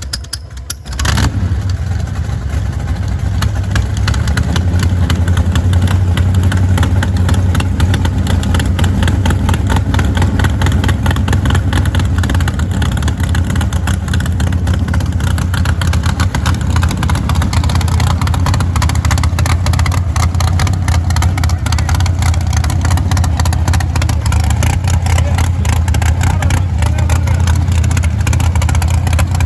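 A vehicle engine running loud and steady with a fast, even firing rhythm. It comes up abruptly about a second in and stays at that level, the engine that would not start now running.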